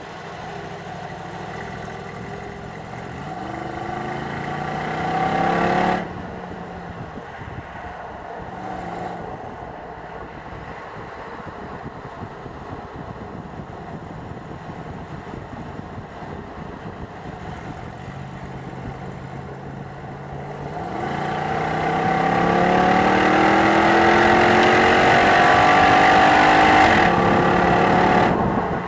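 Jeep Grand Cherokee SRT8's 6.1-litre Hemi V8 under acceleration: revs rise for a few seconds and cut off suddenly about six seconds in. It then runs quieter with small rises, and from about twenty seconds in pulls hard again with steadily climbing revs, shifting gear near the end.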